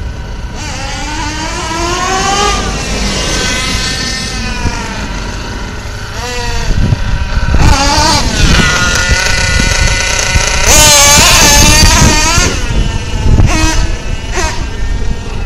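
Nitro engine of a Kyosho Mad Force RC monster truck running and revving: the pitch climbs and falls several times, with short throttle blips and one longer high-revving run near the end.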